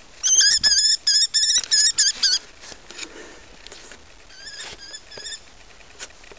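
Common kestrel giving its shrill, rapidly repeated kee-kee-kee call: about nine quick notes close by, then a fainter run of the same notes a couple of seconds later.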